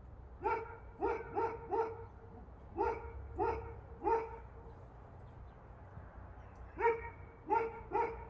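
A dog barking in three bouts of three or four short, evenly pitched barks, ten in all, with a gap of about two and a half seconds before the last bout.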